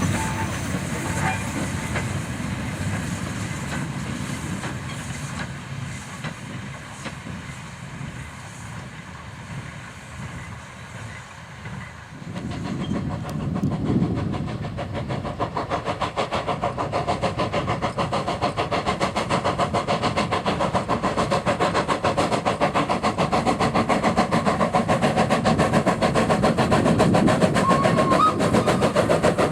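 A steam locomotive runs past and fades away, with hiss and the clatter of wheels and wagons. About twelve seconds in, another steam locomotive is heard working, its fast, even exhaust beats growing louder as it comes closer.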